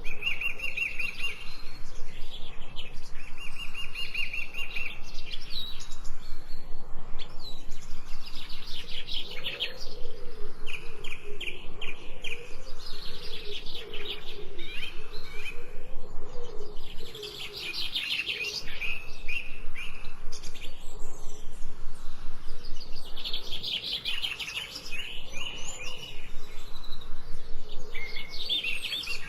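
Songbirds singing and chirping, with short trills repeated again and again.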